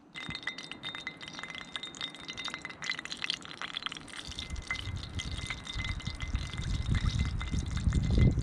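Battered rabbit frying in oil in a small cast iron pan, a steady crackling sizzle. A low rumble builds from about four seconds in.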